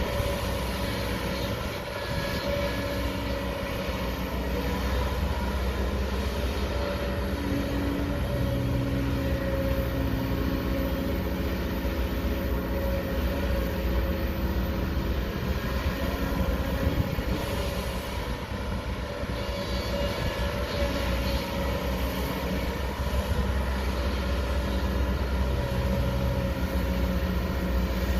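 Excavator's diesel engine running steadily under working load, its low drone shifting slightly in pitch as it works.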